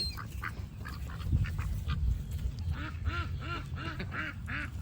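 Ducks quacking in a run of short calls, several a second, over a low rumble of wind on the microphone.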